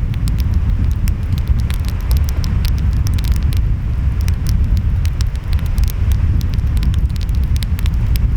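Wood fire crackling, with many quick sharp pops, over a steady low rumble of ocean waves and wind.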